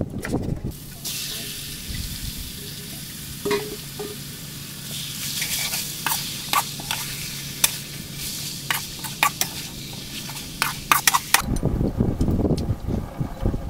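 Chunks of eel stir-frying in a wok: a steady sizzle, with a metal spatula scraping and clicking against the pan many times in its second half. Near the end the sizzle stops and wind rumbles on the microphone.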